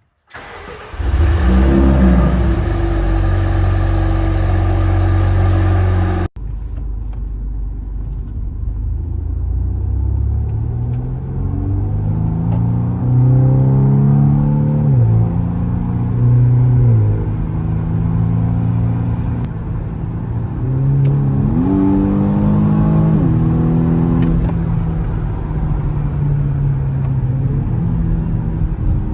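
BMW M135i F40's turbocharged 2.0-litre four-cylinder through an Akrapovic titanium slip-on exhaust. It starts from cold about half a second in and holds a steady high idle. After an abrupt cut it idles and is revved several times, the pitch rising and falling.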